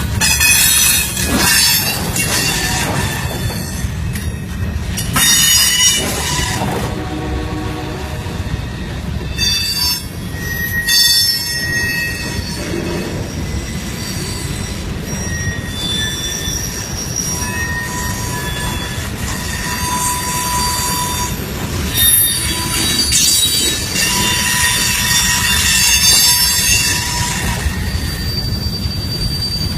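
Freight train rolling past at close range: a steady low rumble from the cars, with the wheels squealing shrilly on the rails.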